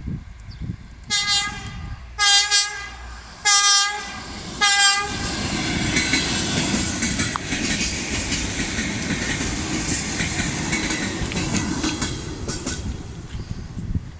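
Electric train horn sounding several short blasts, followed about five seconds in by a train running past with a rushing roar and wheels clattering over rail joints, fading near the end.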